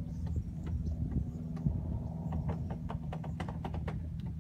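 A steady low hum with irregular sharp clicks and taps, coming thicker in the second half.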